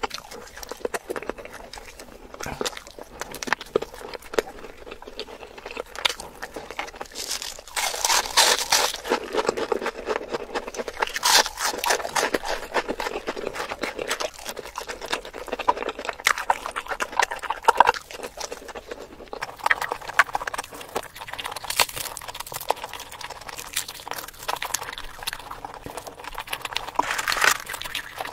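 Close-miked eating sounds of roast chicken being chewed: wet, clicky chewing with crunchy bites, louder several times over.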